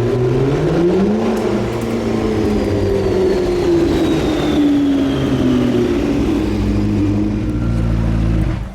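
McLaren P1's twin-turbo V8 running hard, its pitch rising about a second in and then falling gradually over several seconds, with a faint high whine sliding down in pitch through the middle. The engine sound drops away abruptly near the end.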